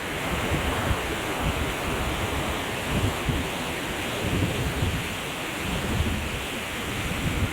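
Steady rush of falling water from a stream waterfall, with uneven wind buffeting on the microphone.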